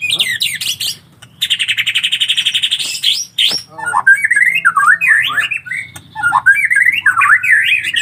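A bird calling in quick, varied chirps and warbles. A fast, even rattle runs from about a second and a half to three seconds in.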